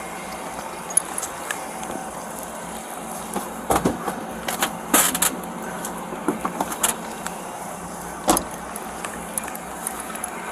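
Scattered clicks, knocks and rustles of handled gear over a steady background hum, picked up by a body-worn camera's microphone.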